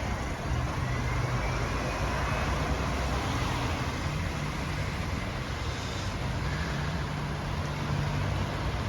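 A bus engine running steadily close by, its low hum holding through, with road traffic noise around it.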